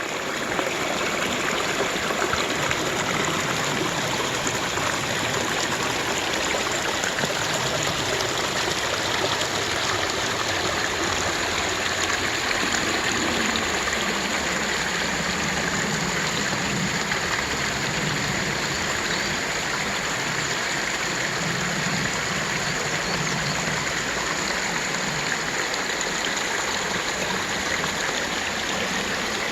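A forest brook rushing and splashing over rocks in a steady, even flow.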